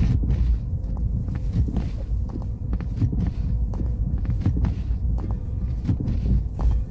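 Car driving on a snow-covered road: a steady low rumble with irregular crunching clicks and knocks from the tyres on the snow.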